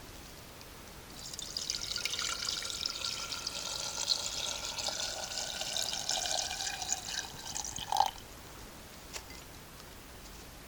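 Water being poured in a steady stream for about seven seconds, then stopping with one short knock.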